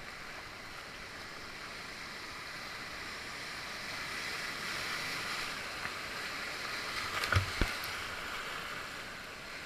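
Rushing whitewater of a river rapid, swelling a little toward the middle, with two sharp thumps close together about seven seconds in.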